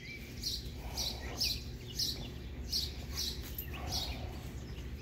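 A bird chirping over and over, short high chirps about twice a second, over a low background rumble.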